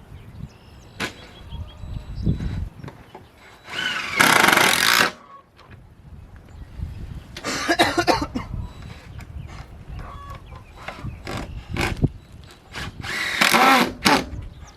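Power drill run in three short bursts of about a second each, with wind rumbling on the microphone between them.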